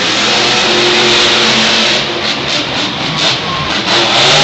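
Monster truck engine revving hard, surging several times in the second half.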